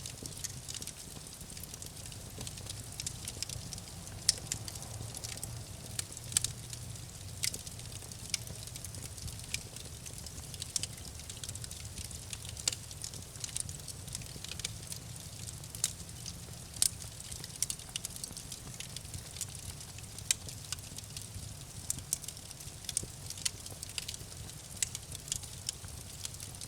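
Campfire crackling, with irregular sharp pops, a few of them much louder, over a steady low rumble.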